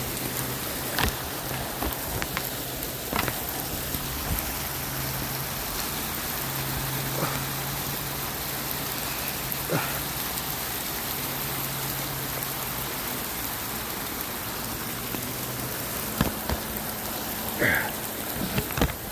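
Steady rain falling on a surface, with scattered louder drops striking close by. A low steady hum runs underneath, breaking off now and then, and stops about three-quarters of the way through.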